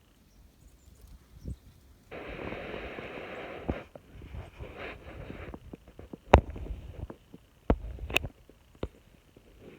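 Close-up drawing sounds: a graphite pencil rubbing on card stock on a clipboard for about a second and a half, then lighter scratching and a few sharp clicks and taps.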